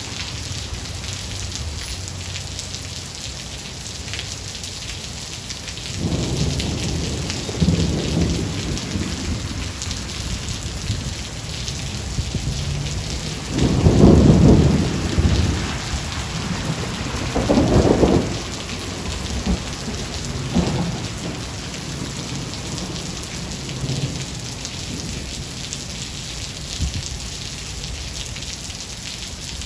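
Steady heavy rain with rolls of thunder rumbling through it: a first roll about six seconds in, the loudest about halfway through, another shortly after, then fainter rumbles fading out toward the end.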